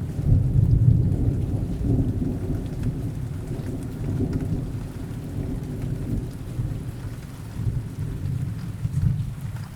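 Rain falling steadily with a low rolling thunder rumble, loudest about a second in and slowly dying away, with a couple of smaller swells later.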